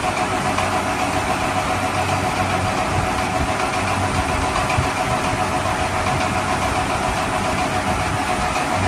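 A steady idling-engine sound with a constant hum, unchanging throughout.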